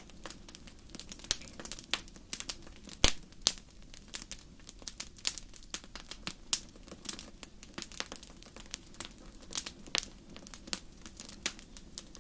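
Wood fire burning in a fireplace, crackling with irregular sharp pops and snaps over a faint steady background; the loudest pop comes about three seconds in.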